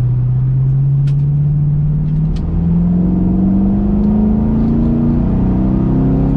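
Chevrolet Camaro V8 accelerating, heard from inside the cabin: the engine note steps up at the start and then climbs steadily. Two faint clicks come about a second and two and a half seconds in.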